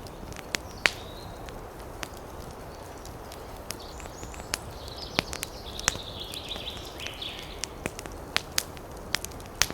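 Wood fire crackling: irregular sharp pops and snaps over a steady low rumble, with a wavering hiss for a few seconds in the middle.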